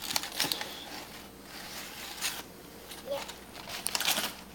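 Packaging rustling and crinkling in short irregular bursts as a child rummages through a box for toys.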